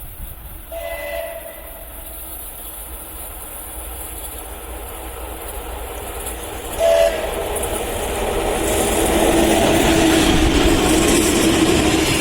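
VL10 electric freight locomotive sounding its two-note horn twice: a longer, fainter blast about a second in and a short, loud toot around seven seconds. Then the rumble of the locomotive and its freight train rises steadily as it approaches.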